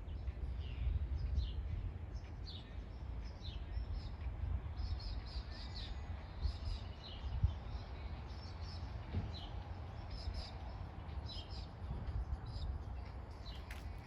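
Birds chirping over and over, short high chirps a second or so apart, over a steady low rumble.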